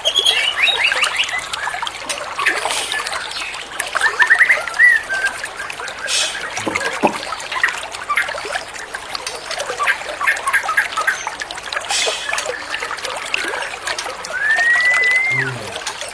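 White-rumped shama singing varied whistled phrases and quick note series, including a long rising whistle near the end, over the steady sound of trickling water.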